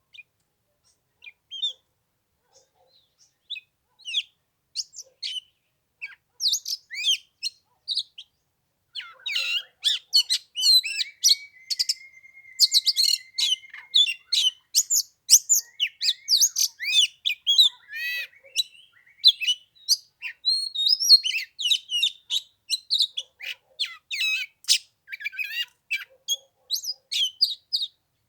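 Oriental magpie-robin singing: a few scattered short chirps at first, then from about nine seconds a fast, unbroken run of varied whistles and chirps, with one long held whistle partway through.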